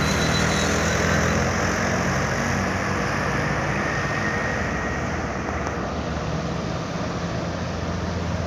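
Heavy diesel truck engine running steadily with a low drone, typical of a loaded truck pulling uphill; it eases slightly about two-thirds of the way through.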